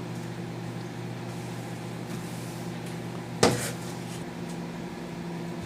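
Microwave oven running with a steady hum while it cooks an ear of corn in the husk. One sharp knock about three and a half seconds in.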